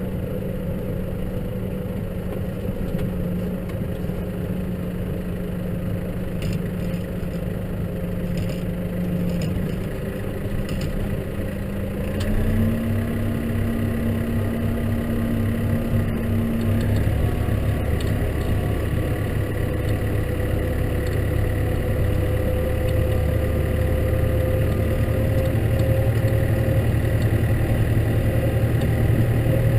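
Case tractor engine running while ploughing snow. About twelve seconds in the engine note steps up, and it then climbs slowly, growing louder toward the end.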